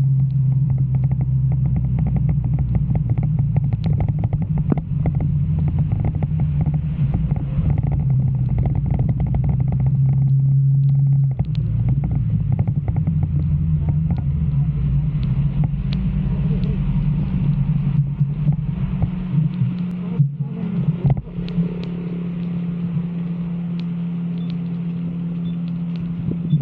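Motorcycle engine running while riding, its note shifting about eleven seconds in and again after a brief dip around twenty seconds in, then holding steady. Scattered light ticks run over it.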